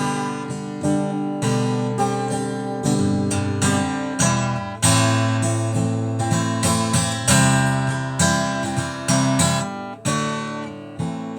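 Acoustic guitar playing: chords strummed and plucked in a steady rhythm, each one ringing and fading before the next.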